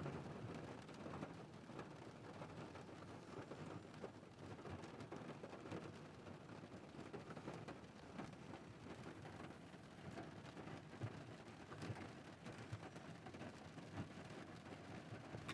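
Rain falling steadily on a stopped car, a soft even hiss with many scattered taps of drops.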